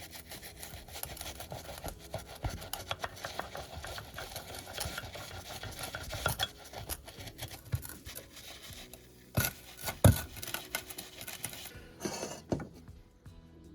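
Hand scraping and scrubbing on rusty metal tool parts: a dense run of small scratches and clicks, followed by three louder metal knocks in the last few seconds as the scraping dies away.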